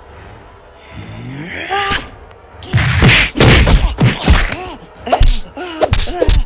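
Cartoon fight sound effects: a rising pitched glide, then from about a third of the way in a rapid flurry of loud thuds and whacks mixed with short pained yelps.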